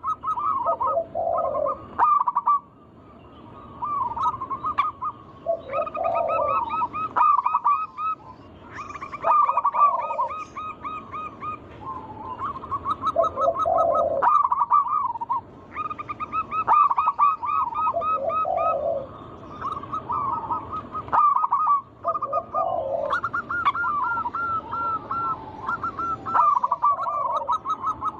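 Zebra doves (perkutut) singing: rapid, trilled cooing phrases repeat over and over, with a deeper coo about every four seconds and quick series of higher notes laid over them.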